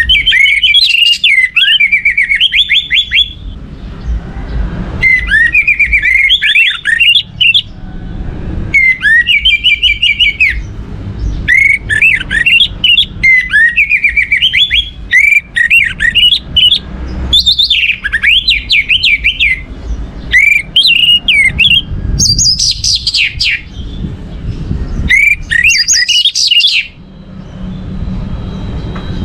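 Orange-headed thrush (anis merah) singing: about ten loud, rapid warbling phrases of quick whistled notes, each lasting a couple of seconds with short pauses between, falling silent near the end.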